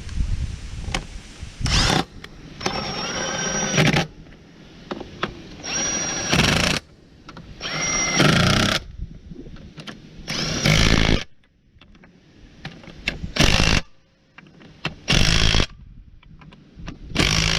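Impact wrench (rattle gun) run in about eight short bursts, some under half a second and a few up to about a second and a half, nipping up hub and suspension bolts that were first started by hand.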